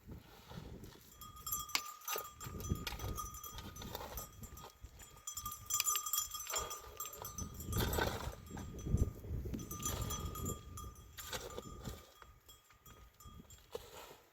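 Bells on a flock of livestock ringing and clanking as the animals move about, with a steady ringing tone that comes and goes several times and scattered clinks and knocks.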